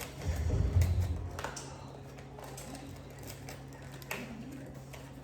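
Scattered light taps and clicks of cookie dough pieces and packaging being handled on a baking tray, with a low bump about half a second in.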